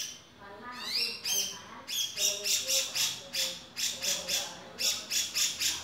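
Male cucak jenggot (grey-cheeked bulbul) calling: a couple of rising whistled glides about a second in, then a fast run of short harsh notes, about four a second.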